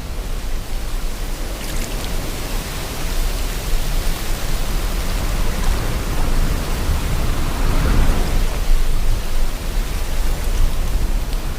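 Sea water washing and wind blowing in a steady, even rush with a deep low rumble, swelling a little about eight seconds in.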